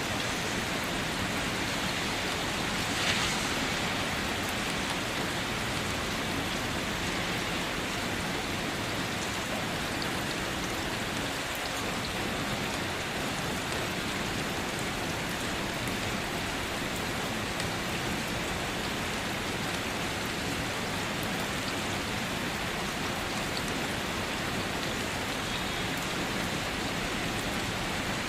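Steady rain falling on surfaces, a dense even hiss of drops, with one slightly louder drop or splash about three seconds in.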